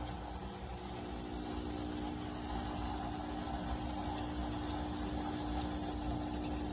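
De'Longhi Dedica Duo espresso machine's vibration pump humming steadily, pushing water through the machine.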